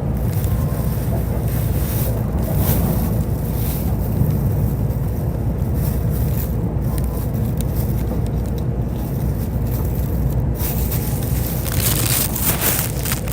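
Running noise heard inside a JR E531 series electric multiple unit travelling at speed: a steady low rumble of wheels on rail with a faint steady hum, and a brief rise in hiss near the end.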